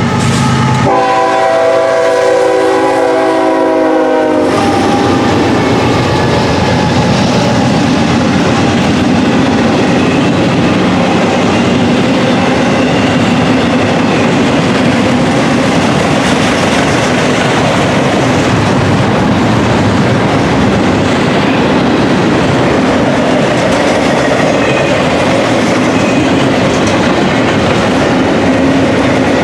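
Diesel locomotive horn blowing, with a short break about a second in, and cutting off about four seconds in. After it comes the steady rumble and clatter of a long intermodal container train rolling past on the rails.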